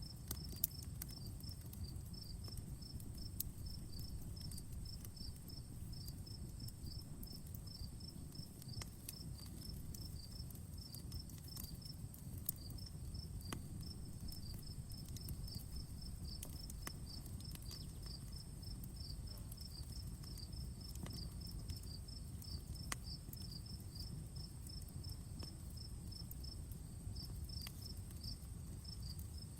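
Wood fire crackling, with sharp pops scattered irregularly over a low steady rumble, a few louder snaps among them. Behind it an insect chirps in a fast, even rhythm that pauses briefly a couple of times.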